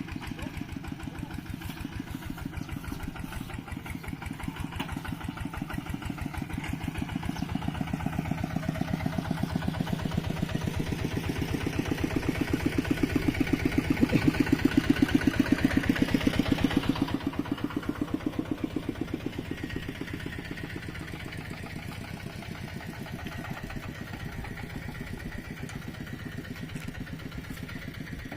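Mini tractor's single-cylinder diesel engine chugging with a steady, rapid beat. It grows louder over the first half, then drops suddenly a little past the middle and runs on more quietly.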